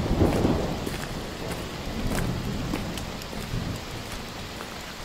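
Steady rain falling, with single drops ticking close by, under a low rumble of distant thunder that fades over the first second and swells again briefly about two seconds in.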